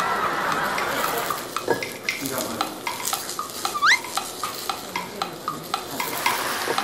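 Egg and tomato frying in a wok on a gas burner, sizzling steadily as a wooden spatula stirs them, with many light scrapes and taps of the spatula on the pan. A short rising whistle about four seconds in.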